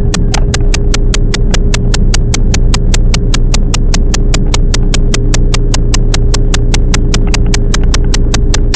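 Running sound of a Toyama Chiho Railway 10030 series electric train: a steady low rumble and hum, overlaid by a fast, perfectly regular clicking of about five ticks a second.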